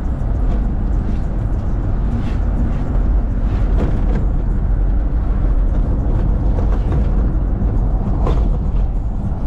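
Steady low rumble of road and engine noise from a moving vehicle.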